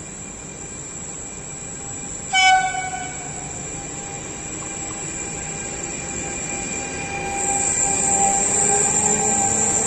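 A short, loud blast of an electric locomotive's horn about two seconds in, then the running noise of the approaching freight train growing louder, with a steady whine that rises slightly near the end.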